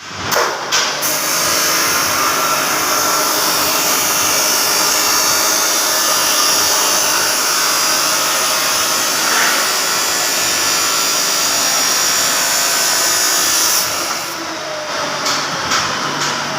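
Electric power drill running steadily for about fourteen seconds while drilling for an exhaust fan bracket, then stopping, followed by a few light knocks.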